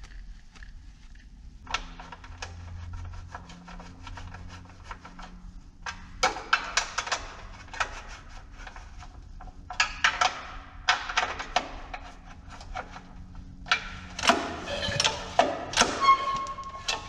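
Several bursts of rapid mechanical clicking and rattling, each a few seconds long with short pauses between, louder near the end, from hands-on work on a pressure washer's pull-start recoil assembly.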